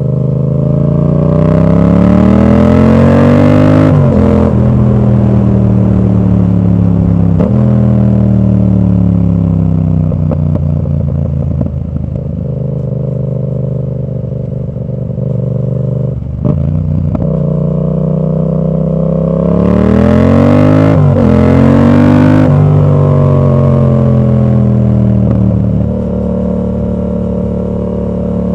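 Yamaha MT-07's 689 cc parallel-twin engine, exhaust with the dB killer fitted, pulling hard twice with the revs climbing and stepping through gear changes, and the pitch falling away in between as it rolls off the throttle.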